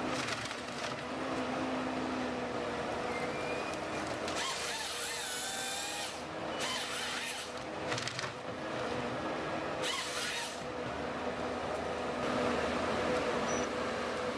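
Machinery running with a steady hum, broken by several short bursts of harsh, hissing noise about four, seven and ten seconds in.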